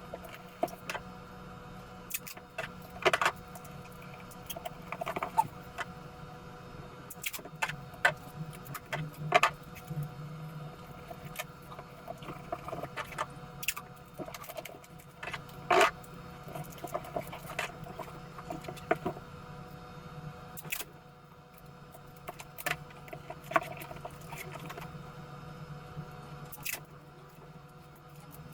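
Cardboard and adhesive tape being handled while a cardboard box is taped together: irregular crackles, taps and short tearing clicks over a steady low hum.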